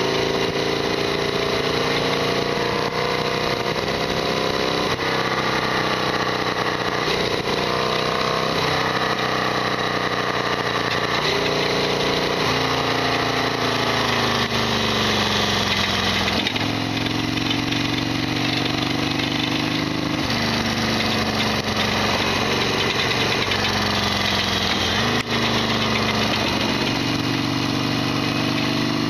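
Harley-Davidson XL1200R Sportster's air-cooled V-twin running under way, its revs climbing and then dropping sharply several times. Through it runs a loud mechanical rattle, the bike's usual abnormal clatter.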